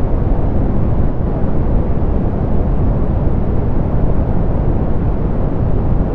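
Soft pink noise: a steady, even hiss with a deep, rumbling weight, strongest in the bass and falling away toward the treble, with no changes.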